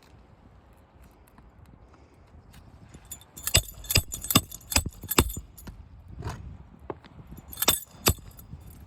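Hammer driving roofing nails into asphalt shingles: a run of five sharp metallic strikes, then two more near the end.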